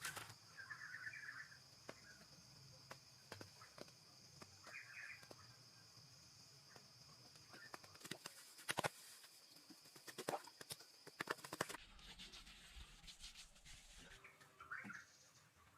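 Quiet outdoor background with faint bird chirps now and then, a few sharp clicks or knocks, and a steady high whine that stops about twelve seconds in.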